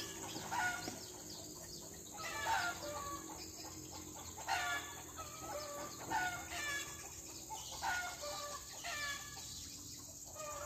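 A bird calling: short bursts of several falling notes, repeating about every two seconds, over a steady high hiss.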